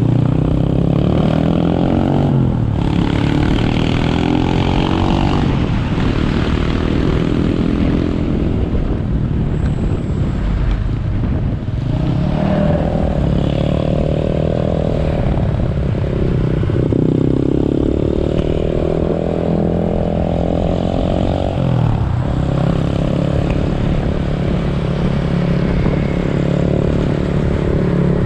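Motorcycle engine heard from the rider's seat, running under way and rising and falling in pitch several times as the rider accelerates and eases off.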